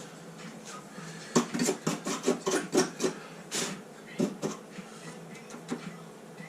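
Irregular light clattering and knocking on sheet metal, about a dozen sharp clicks over three seconds, made while rust converter is being worked into a rusted car door bottom.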